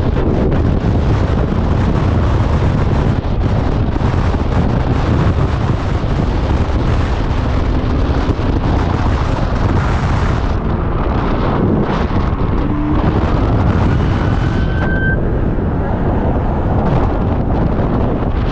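Wind buffeting the microphone of a moving motorcycle, a loud, steady rumble that covers everything else. A faint rising whine comes through about thirteen seconds in.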